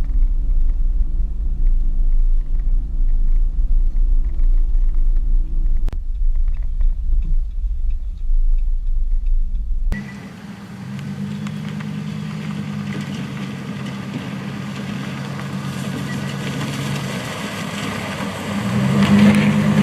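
Vehicle driving on the road: a deep rumble with a steady engine hum. About ten seconds in, the deep rumble drops out abruptly, leaving a higher engine hum with road hiss that rises in pitch near the end.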